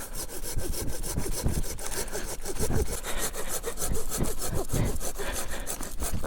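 Hand saw cutting wood with quick, regular back-and-forth strokes.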